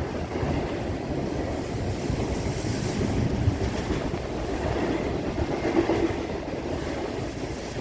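Norfolk Southern freight train's cars rolling past, a steady, even rail noise with no break.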